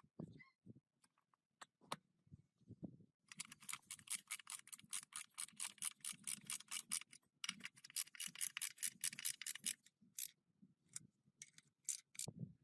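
Rapid back-and-forth hand scraping strokes on a surface, about seven a second, in a run of nearly four seconds and then a shorter run of about two, with a few single strokes around them.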